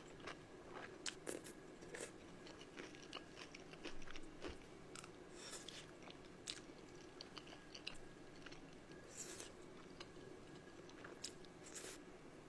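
Close-up eating sounds: crunchy bites and chewing, with short crisp crackles and wet mouth clicks scattered throughout.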